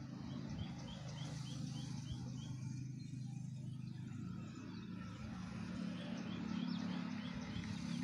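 A small bird chirping in two runs of short, high notes, about four a second, one early and one late, over a steady low hum.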